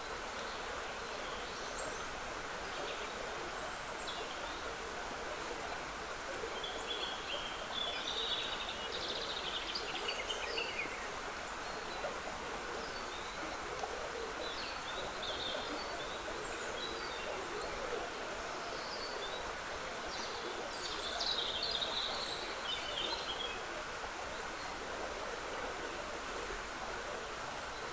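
Trickling water running steadily, with woodland songbirds singing short chirping and warbling phrases over it. The birdsong is strongest about a third of the way in and again at about three-quarters.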